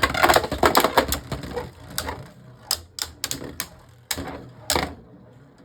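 Two Beyblade Burst spinning tops clashing in a plastic stadium: rapid clattering collisions at first, thinning after about two seconds to a few separate sharp clacks.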